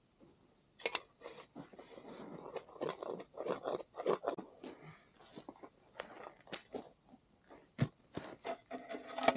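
Soot being scrubbed and scraped out of a sooty metal stove pipe: irregular scraping strokes, with a sharp knock a little before the end.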